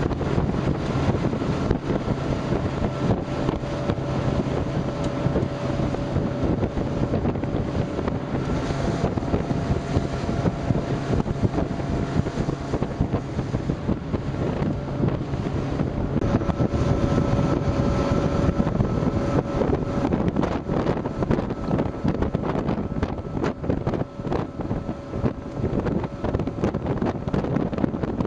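A RIB's engine running under way: a steady drone whose note shifts about halfway through. Heavy wind buffeting on the microphone is mixed in.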